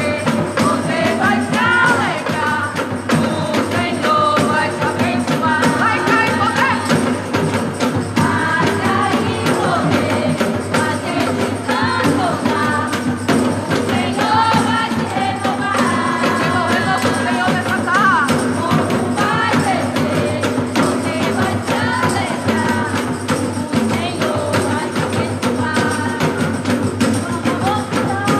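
Live gospel worship band playing a song with a voice singing the melody over steady percussion and a tambourine-like shaking rhythm.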